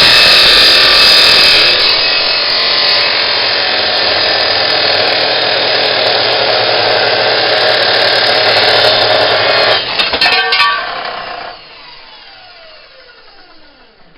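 Power metal-cutting saw cutting through steel stock with a loud, harsh grinding. About ten seconds in there are a few knocks as the cut ends, then the saw is switched off and its blade winds down in a falling whine.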